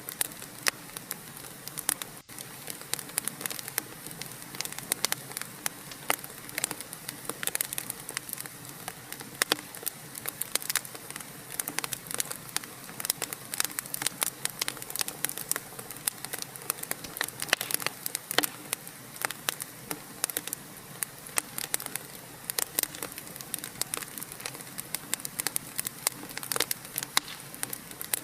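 Wood fire in a fireplace crackling, with frequent irregular sharp pops and snaps over a steady hiss. The sound cuts out for an instant about two seconds in.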